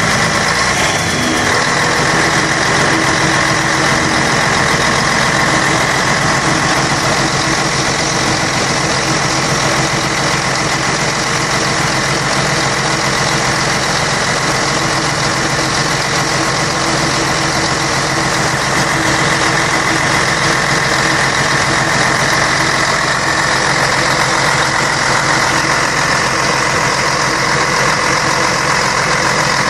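Scania K113 bus's diesel engine running steadily at an even speed, with no revving or change in pitch.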